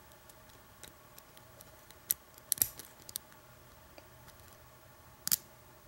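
Lock pick hook and tension bar working the pin stack of an Abus 83 padlock during single-pin picking: faint scraping with scattered small metallic clicks as pins are lifted and set. The sharpest clicks come a little after two seconds in, around two and a half seconds, and just after five seconds.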